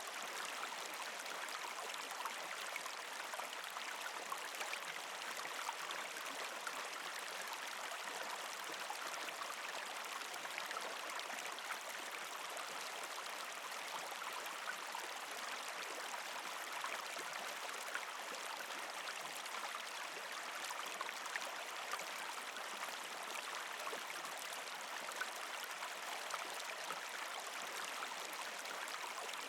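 Creek water running and gurgling over rocks under partial ice, a steady rush with faint fine trickles and splashes.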